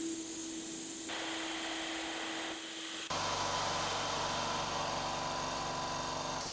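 Steady whirring of a motor-driven machine, blowing or grinding, that changes character about a second in. About three seconds in a lower motor hum with a steady whine takes over, and it stops near the end.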